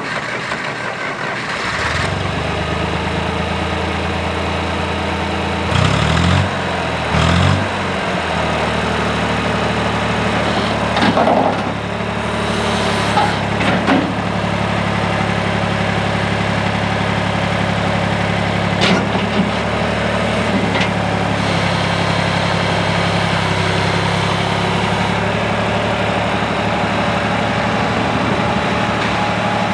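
John Deere 1020 tractor engine coming to life about two seconds in, revved briefly a few times, then idling steadily.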